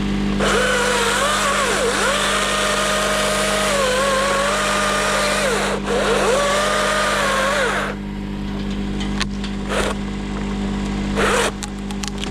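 Chainsaw running, its pitch dipping and recovering several times as it cuts, cutting off about eight seconds in, then revved in two short blips, over a steady engine hum.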